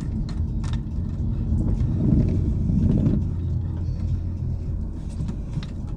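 Car driving, with a steady low road and engine rumble heard from inside the cabin that swells briefly about two seconds in.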